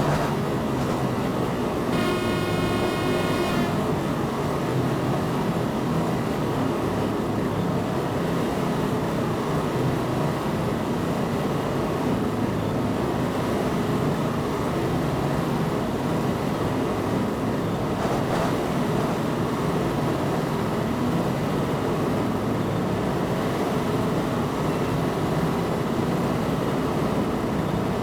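Train running steadily, heard from inside the driver's cab, with one horn blast of about a second and a half about two seconds in.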